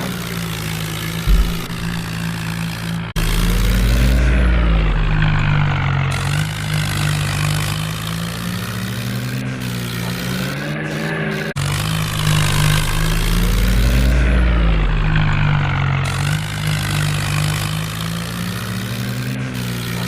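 Tractor engine running under load, its pitch swelling up and back down twice with a deep rumble.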